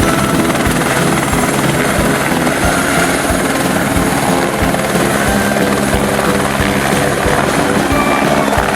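Helicopter sound effect: the steady chop of rotor blades, a regular low thudding over engine noise.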